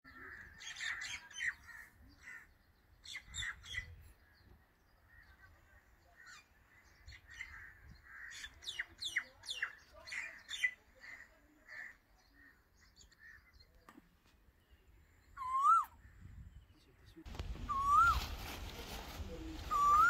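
Small birds chirping and twittering in quick, sweeping calls. Near the end a single clear whistled note that rises and then falls repeats about every two seconds.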